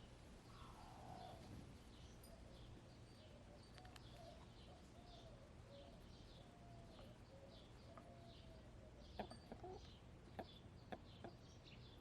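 Faint, soft, drawn-out murmuring calls of hens, with one falling call near the start. Behind them a small wild bird chirps over and over, and a few sharp clicks come in the last few seconds.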